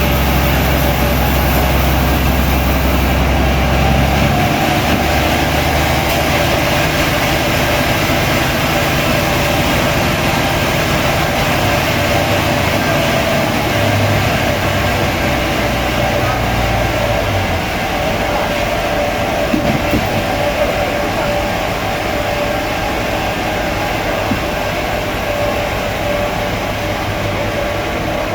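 Sawmill machinery running steadily, a loud, even mechanical noise with a constant whine. A deeper hum drops away about four seconds in, and again a little past the middle.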